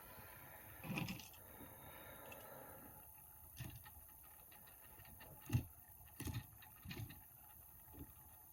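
Faint handling noises: a handful of soft taps and knocks as a carded Hot Wheels diecast car in its plastic blister pack is held and turned, with a louder knock about halfway through.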